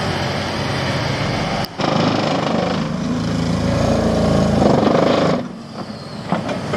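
Construction machine engine, most likely the excavator's, running and building up louder between about three and five seconds in, then falling away suddenly about five and a half seconds in.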